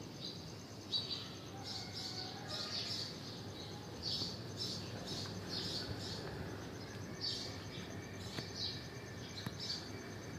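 Small birds chirping: short, high chirps come one after another, a few each second in loose clusters, over a faint steady high whine and low outdoor background noise.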